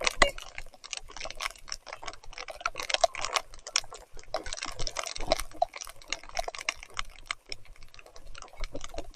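Rain and wet mud spattering against the camera while riding: a dense run of irregular ticks and splashes.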